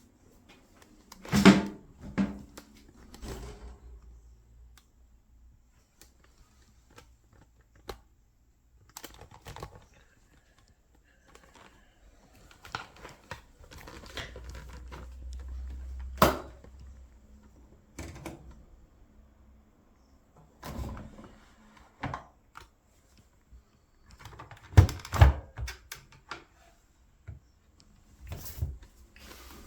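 Irregular knocks, clunks and clicks of things being handled at close range, loudest about a second and a half in and again near 25 s, with a brief low rumble in the middle.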